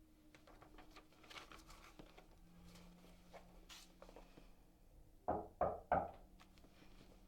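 Three sharp knocks on a door in quick succession about five seconds in, after faint light rustling and small clicks.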